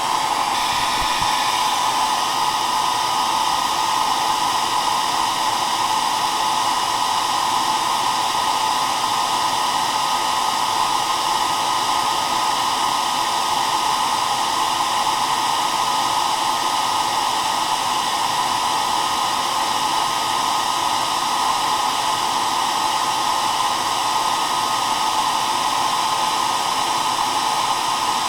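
Hair dryer running continuously at a constant speed: a steady whooshing blow with a strong hum near 1 kHz and faint whine tones above it.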